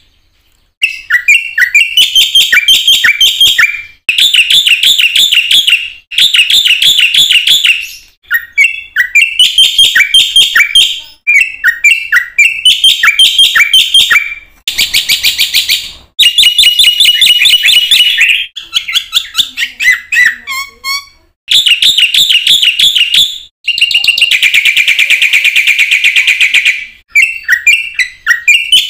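Black-winged starling (jalak putih) singing loudly in chattering phrases of fast repeated whistled notes. Each phrase lasts a few seconds, with brief pauses between them.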